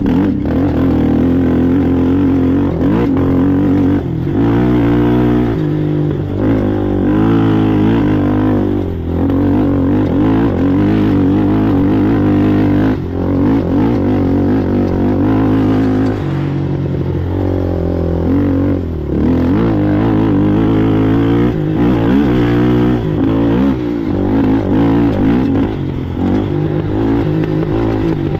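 Race ATV engine running hard, its pitch rising and falling as the throttle is worked, with brief drops in level every few seconds.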